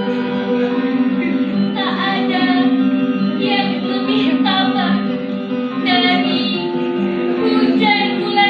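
A song: a female voice singing over a sustained instrumental accompaniment.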